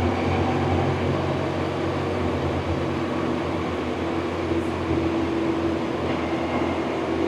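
BMW R1100RT's boxer-twin engine running steadily while riding, a low drone with a steady hum, under an even rush of road and wind noise.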